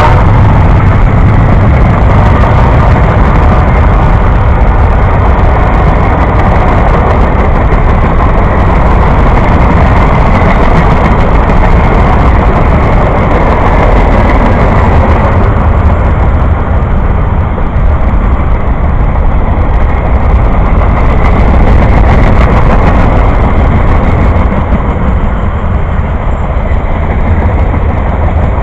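Train rolling past, a loud steady rumble of wheels on rail. The higher hiss thins out slightly in the second half.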